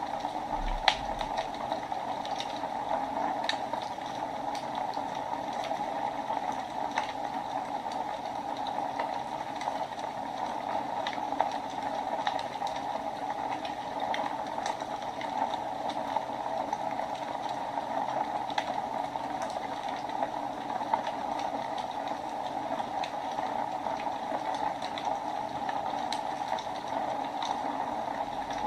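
Wood fire burning in a fireplace: a steady hiss with scattered crackles and a few louder sharp pops.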